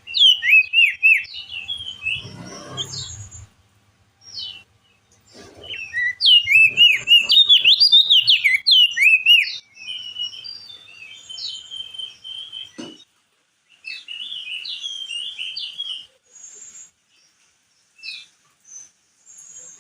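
Crested white-eye singing a fast, jumpy warbling song in several bursts separated by short pauses, the loudest burst in the middle, with thin high notes between the phrases.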